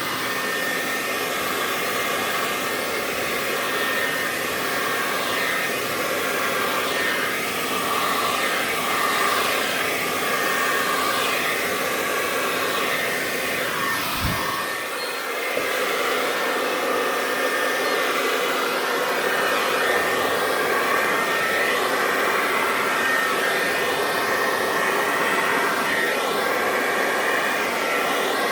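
Remington handheld blow-dryer running steadily on its cool-blast setting, a continuous rush of air with a faint whine. About halfway through there is a brief low thump and a short dip in the level.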